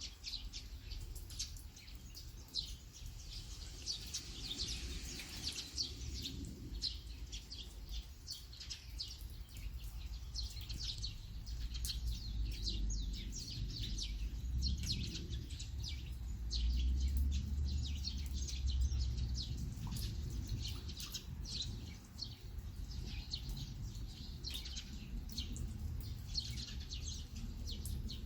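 Small birds chirping in quick, continuous short calls, over a low rumble that swells about two-thirds of the way through.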